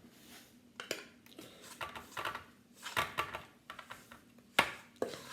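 Spoon scraping and knocking against a pan and cake tin as crumbly chocolate-biscuit mixture is worked out of the pan. It comes as irregular scrapes and clinks, with the sharpest knock about four and a half seconds in.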